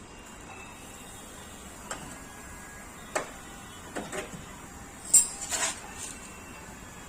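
Hand tools knocking on a Maruti 800's sheet-metal body during manual dent repair: several irregular knocks and taps, the loudest about five seconds in.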